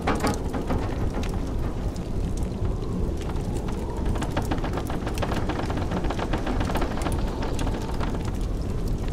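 Steady blizzard wind blowing with a low rumble, over a wood fire crackling with many small irregular pops.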